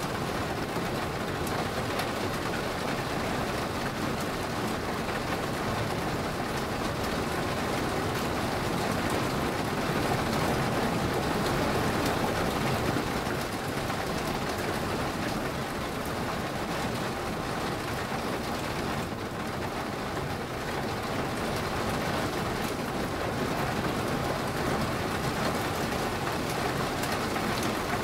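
Steady rain falling, a dense even hiss of drops that gets slightly louder for a few seconds around the middle.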